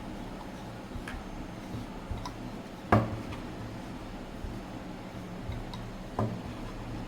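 Scattered light taps and knocks from stuffed chapathi dough being gently flattened, with two louder knocks about three and six seconds in.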